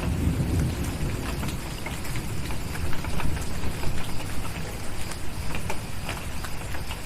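Steady rain with a wood fire crackling in short, sharp pops, and a low thunder rumble fading out in the first second or so.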